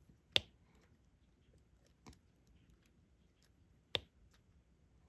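Small sharp clicks of a diamond painting stylus setting resin drills onto the canvas: a louder click just after the start, a fainter one about two seconds in, a louder one about four seconds in, and light ticks between.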